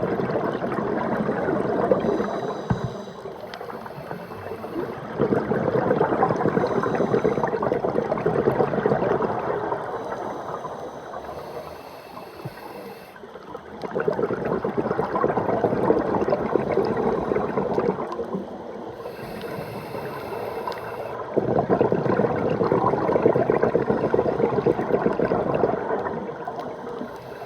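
Water heard underwater: a dense bubbling, gurgling noise that swells and fades in long waves several seconds apart.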